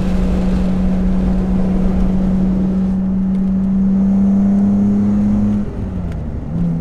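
The S54 3.2-litre inline-six of an E36 BMW M3 on a freshly installed CSL tune, heard from inside the cabin while driving, with steady road rumble underneath. The engine note climbs slowly, then falls and drops in level briefly near the end before settling at a lower pitch.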